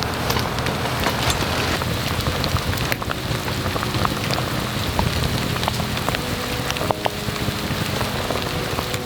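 Pot of black-goat broth boiling hard: a steady bubbling hiss full of small pops and crackles.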